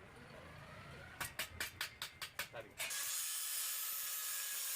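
A run of about eight quick clicks, then about three seconds in a steady hiss of paint spraying starts.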